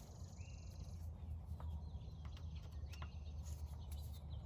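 A bird calling faintly, a short rising whistle-like chirp twice, over a steady low hum with a few light clicks.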